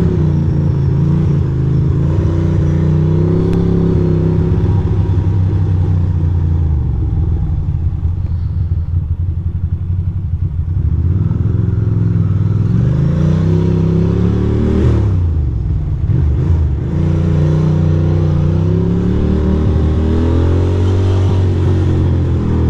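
2006 Ducati Monster 620's air-cooled V-twin engine running under way. Its pitch rises as it accelerates about halfway through, drops sharply about two-thirds in, then rises again near the end.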